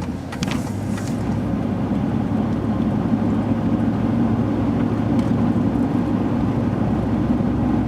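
Washing machine running through a wash cycle: a steady low mechanical hum that grows slightly louder about a second in.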